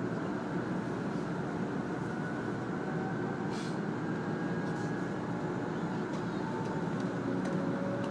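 A 500 series Shinkansen heard from inside the passenger car as it pulls out of a station: a steady rumble of the running train, with a faint whine that steps up in pitch as it gathers speed.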